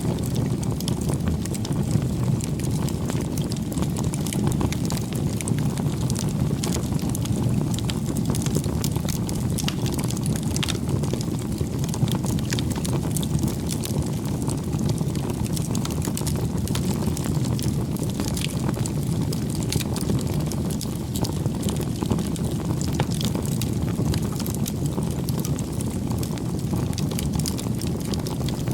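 Wood bonfire burning, with frequent irregular crackles and pops over a steady low rumble.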